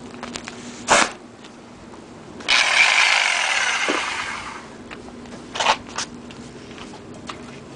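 A burst of hissing, whirring mechanical noise from a tool, lasting about two seconds and fading out, with a few sharp clicks and clanks before and after it.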